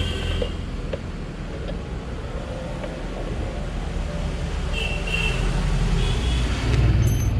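Road traffic going past: a steady low rumble that swells near the end, with a few short high chirps.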